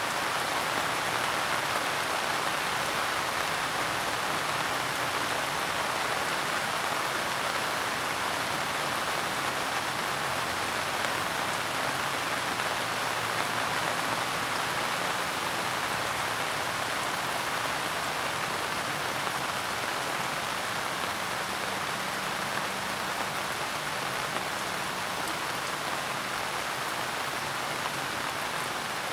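Steady rain falling, an even patter of raindrops on a surface.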